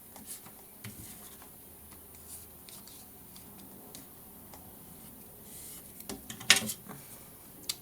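Paper and craft supplies being handled on a worktable: faint rustles and small taps, then a sharp click about six and a half seconds in.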